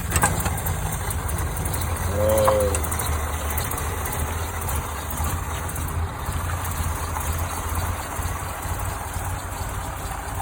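Vintage Scania-Vabis car engine idling steadily with a low hum. A brief voice-like sound comes about two seconds in.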